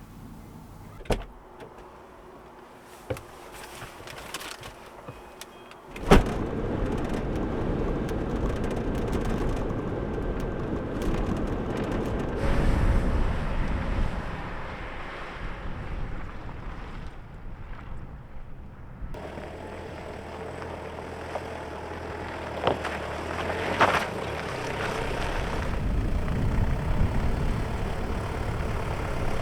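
Vehicle sounds: a few sharp clicks, a loud bang about six seconds in, then a vehicle engine running steadily, with a low hum from about two-thirds of the way through.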